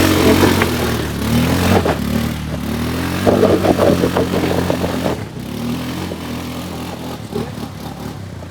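ATV engine revving under load as the quad climbs a hill out of a river, its pitch rising and falling, with a spell of rattling about three seconds in; after about five seconds the engine drops lower and fades.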